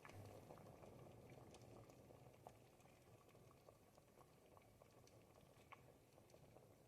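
Ribollita, a thick Tuscan bread and vegetable soup, simmering in a pot: a quiet, steady bubbling with many small pops.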